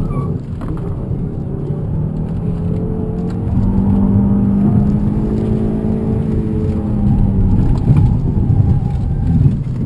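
Volvo C30 T5's turbocharged five-cylinder engine heard from inside the cabin under hard driving on a timed autocross run, the engine note rising and falling with throttle and gear changes. A short thump right at the start.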